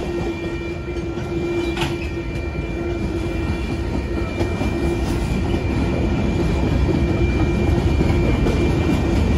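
Freight cars rolling past at trackside: steel wheels rumbling and clacking over the rail joints, growing slightly louder, with one sharper knock about two seconds in.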